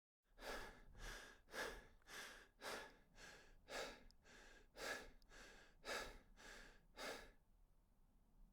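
A person breathing hard in a steady rhythm, about two breaths a second, a dozen or so in all, stopping shortly before the end. Faint.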